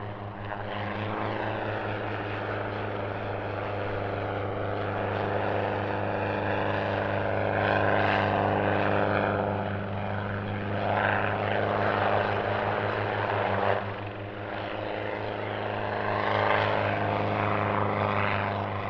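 Modified Schweizer 300 light helicopter flying a display, its piston engine and rotor running with a steady low pulsing drone. It grows louder and quieter several times as it manoeuvres.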